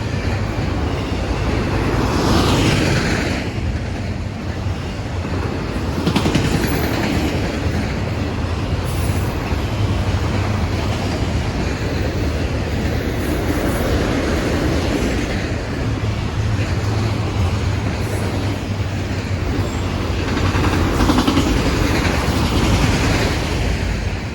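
CSX autorack freight train rolling past, with continuous steel wheel-on-rail noise that swells louder a couple of times.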